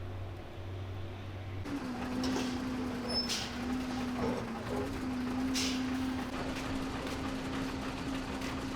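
Large truck engine running steadily in a repair shop: a low, even hum with a few short, sharp hissing or clicking noises over it. The sound changes abruptly at a cut about two seconds in.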